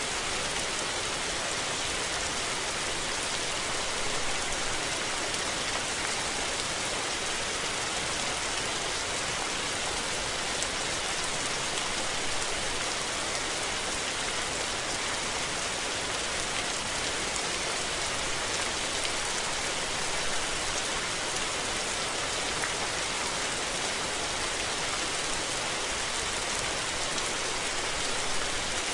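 Steady rain falling and pattering on surfaces, an even hiss of many drops with no thunder.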